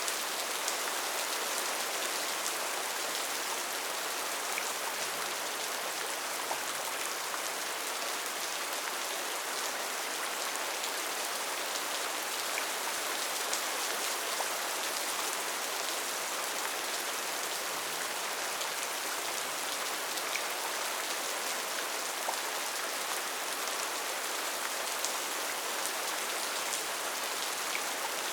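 Steady rainfall in a rainforest, an even hiss of rain with scattered individual drops ticking on leaves and surfaces.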